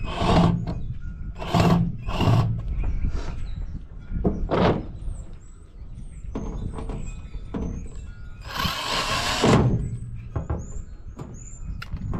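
A microwave oven's sheet-metal casing being worked on during disassembly: several short knocks and thunks, then a longer rasping burst of tool noise about two thirds of the way through.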